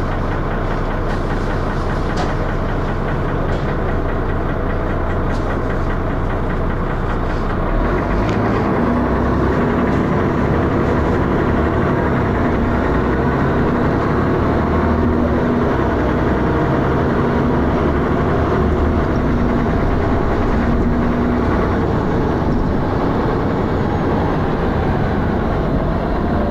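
Dennis Arrow double-decker bus's diesel engine heard from inside the bus, running with heavy thrash. It gets a little louder about eight seconds in, as the engine note changes and works harder.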